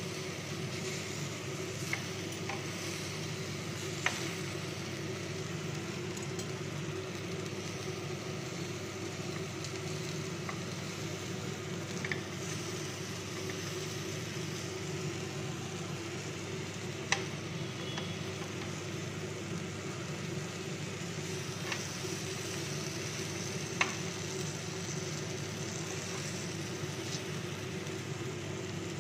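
Tandoori chicken drumsticks sizzling steadily on a ridged grill pan, with a few sharp clicks scattered through and a low hum underneath.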